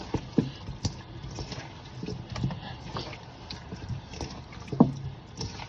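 Kitchen handling noises: irregular light knocks and clicks, with one louder knock near the end.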